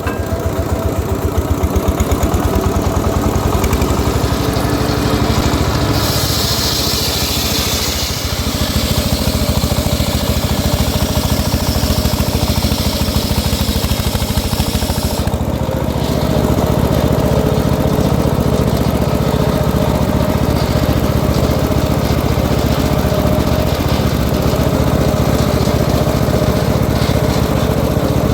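Engine of a home-built sawmill circular saw running steadily with an even low chugging, and a stretch of high hissing about six seconds in that lasts about two seconds.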